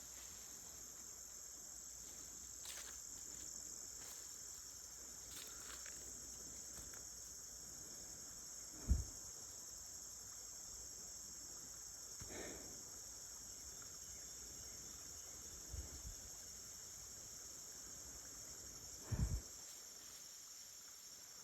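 Crickets chirping in a steady high-pitched chorus, with a few dull low thumps about 9, 12 and 19 seconds in.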